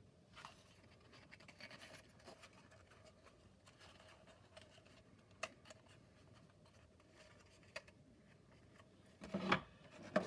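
Faint rustling and scraping of cardboard playset pieces being handled, with two sharp clicks in the middle and louder handling near the end.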